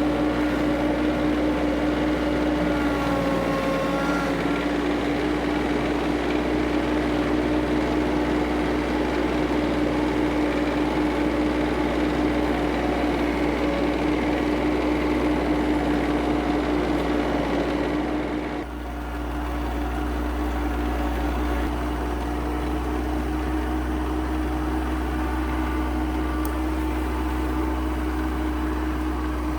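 Kioti CS2520S subcompact tractor's diesel engine running at a steady speed, with a strong steady hum. The sound changes abruptly about two-thirds of the way through, then runs on steadily.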